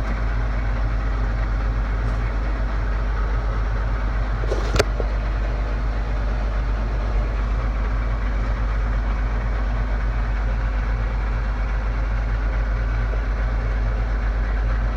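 The 2009 Chevy 8500 bucket truck's 7.8-litre Isuzu Duramax diesel idling steadily, with a single sharp click about five seconds in.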